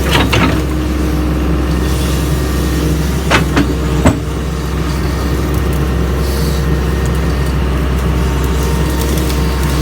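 Doosan DX140 excavator's diesel engine running steadily, with a few sharp knocks, the loudest about four seconds in.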